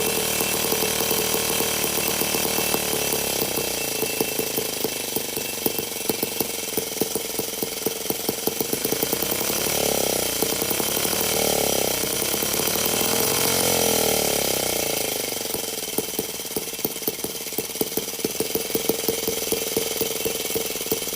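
Miniature 2.2cc twin-cylinder four-stroke model engine running with a rapid, buzzy firing beat. Its pitch rises and falls a few times in the middle, then it settles back to a steady, slightly quieter run.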